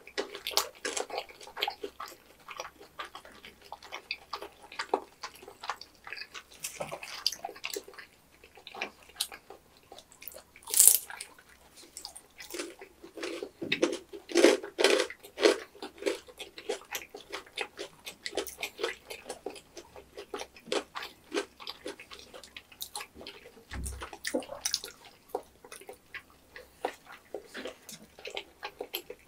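Close-miked mukbang eating sounds: wet, sticky chewing and lip smacking in irregular bursts, busiest about halfway through, with one sharp click about 11 seconds in.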